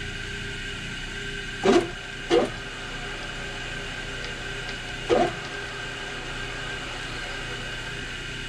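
Tap being turned by hand into a zinc die-cast carburetor float bowl to cut a thread: three short creaks, two close together near two seconds in and one about five seconds in, over a steady hum of shop machinery.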